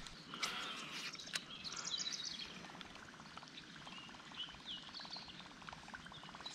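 Birds chirping and calling from the trees, short high chirps scattered throughout, with two sharp clicks about half a second and a second and a half in and a fast run of faint ticks through the middle.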